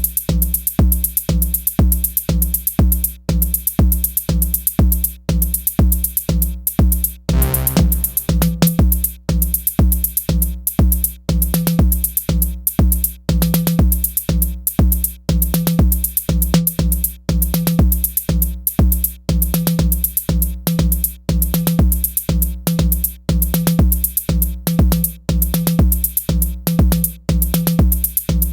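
Elektron Syntakt drum machine playing an electronic drum pattern: an even, driving kick drum with crisp hi-hat-like ticks and pitched percussion tones. About seven seconds in there is a brief fill before the groove carries on.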